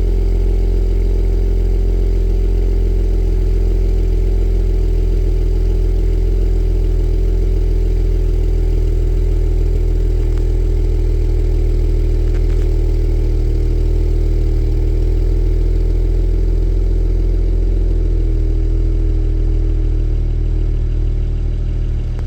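BMW 135i's turbocharged 3.0-litre straight-six idling steadily after a cold start, its pitch easing slightly lower near the end as the cold idle settles.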